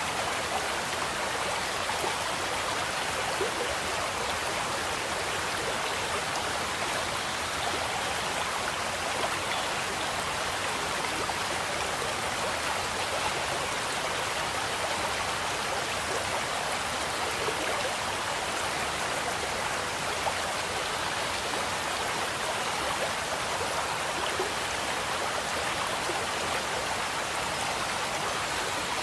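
Water running steadily into a koi pond, a continuous splashing and trickling of falling water.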